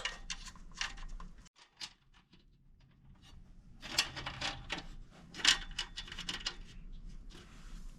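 Light handling noises from sluice box parts: scattered clicks and rubbing, a few sharper clicks about four seconds and five and a half seconds in, with a quieter stretch before them.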